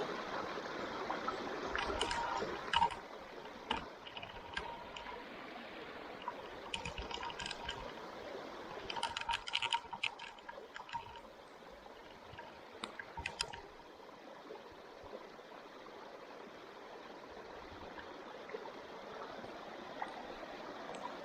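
Wood campfire burning: a steady hiss with scattered sharp crackles and pops, clustered a couple of seconds in, near the middle, and once more a little later.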